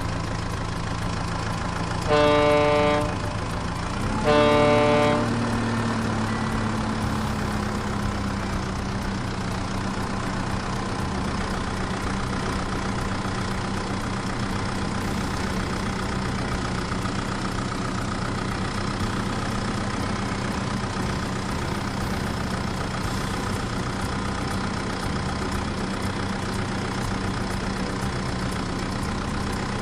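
A truck horn honks twice in short blasts early on, then a truck engine idles steadily with an even low hum.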